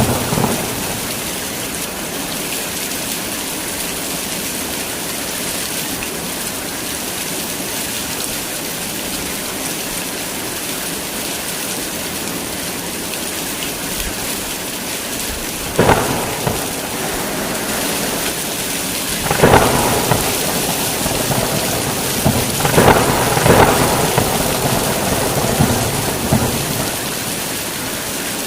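Heavy rain falling steadily, with a thunder rumble dying away at the start and several sudden thunderclaps in the second half, the last ones rumbling on for a few seconds.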